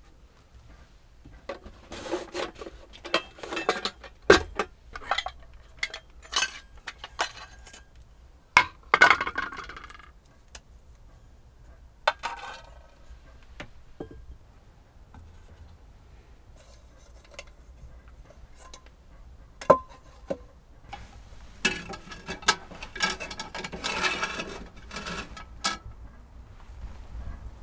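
Irregular clinks and knocks of small hard objects being handled, coming in several clusters with quiet gaps between them.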